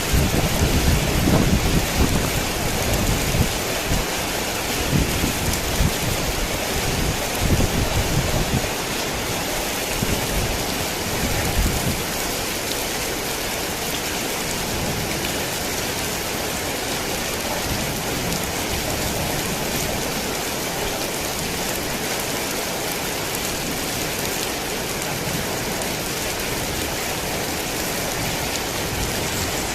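Heavy rain falling in a dense, steady hiss, with low rumbling thunder over the first dozen seconds or so that then dies away, leaving the rain alone.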